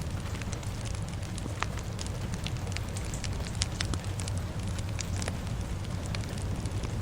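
Wood fire crackling, with frequent sharp irregular pops over a steady low rumble, mixed with a rain ambience.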